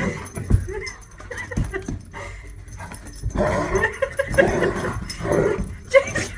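A dog making pitched vocal sounds, heaviest in the second half, with two dull thumps about half a second and a second and a half in.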